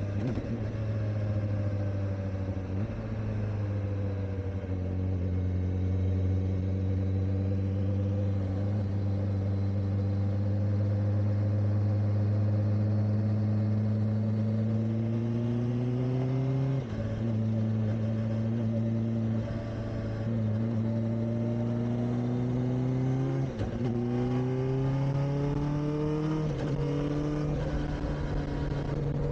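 Kawasaki Ninja ZX-4RR's 399 cc inline-four engine pulling steadily under way. The revs ease off, then climb slowly, with two sudden drops in pitch from upshifts, one past the middle and one later on. The revs are kept low because the new bike is still being run in.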